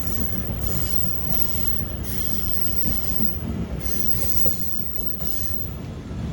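Passenger train running on the rails: a steady low rumble and rattle of the carriages with a shifting hiss above it.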